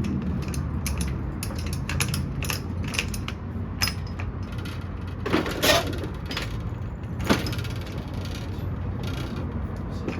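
Irregular metallic clicks and clinks of hand tools on truck body parts during disassembly, with a couple of louder clanks about five and a half and seven seconds in.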